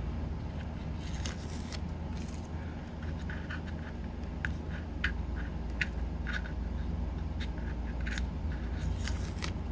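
Scattered light scrapes and clicks of hands working on small craft pieces, over a steady low hum.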